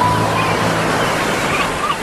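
Ocean wave surging and washing onto the shore, with a few faint seagull cries over it and a soft sustained music pad beneath.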